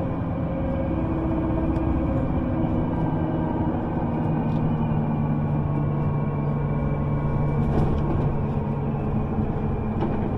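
A vehicle running: a steady rumble with a low hum that holds from about two seconds in to about eight seconds in.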